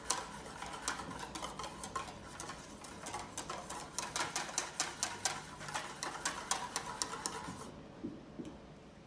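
A wire whisk stirring liquid pet ice cream mix in a mixing bowl, ticking and clicking rapidly against the bowl's sides, a few strokes a second. The whisking stops about three-quarters of the way through.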